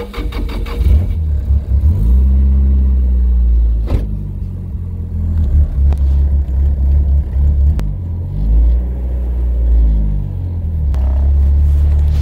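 Nissan 240SX's SR20DET four-cylinder engine revving up and down several times while the car is driven, heard from inside the cabin, with a few sharp clunks along the way.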